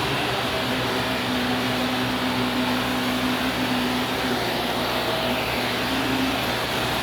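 Upright vacuum cleaner running steadily: a continuous motor hum and airflow rush with no pauses.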